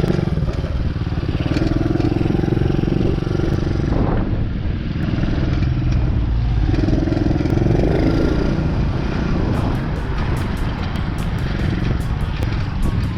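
DB14 dirt bike's engine running as it is ridden, its pitch rising and falling twice, over a heavy low rumble. A run of sharp ticks comes in near the end.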